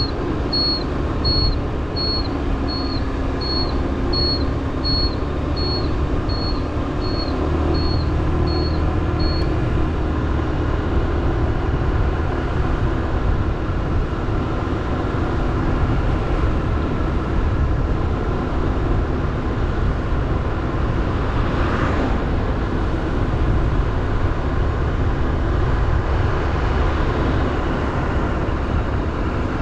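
Motorbike engine running steadily under way, with road and wind noise. For the first nine seconds a short high beep repeats about one and a half times a second.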